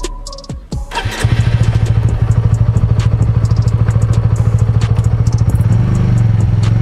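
Honda CBR 150R's single-cylinder engine starting about a second in, then running at a steady idle with even exhaust pulses. The revs rise slightly near the end.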